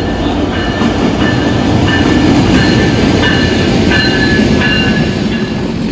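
Silk City Express passenger train pulling into the station: a loud, steady rumble of the carriages rolling past, with short high squeals that start and stop several times.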